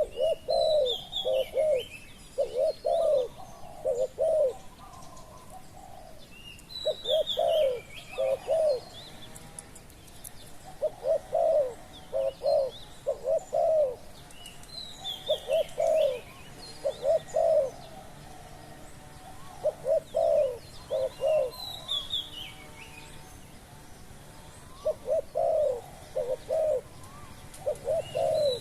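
Spotted doves cooing: phrases of three or four low coos, repeated every few seconds. Other small birds chirp in higher, falling notes between the phrases.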